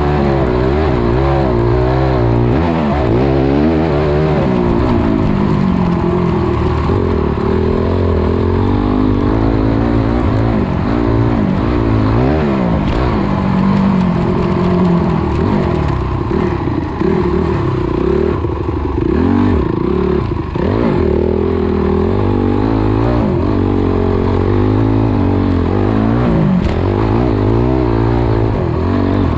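Dirt bike engine heard from a camera mounted on the bike as it is ridden around a motocross track. It revs up and drops back over and over, its pitch rising and falling as the rider opens and closes the throttle.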